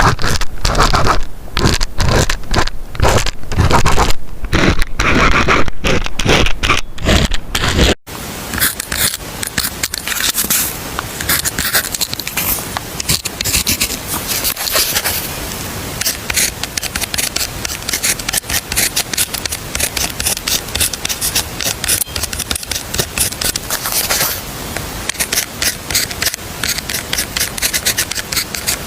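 Scratching of writing on paper. For the first eight seconds it comes as loud, separate strokes. After a sudden cut it becomes a quieter, continuous run of quick scratches.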